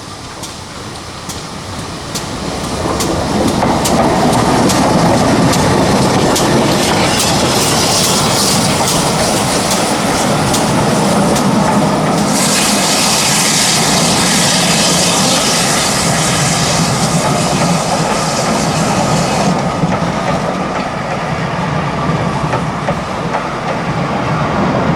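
A heritage train passing close by, growing louder over the first few seconds, its wheels clicking over the rail joints. A loud hiss comes in about halfway through and lasts several seconds before stopping.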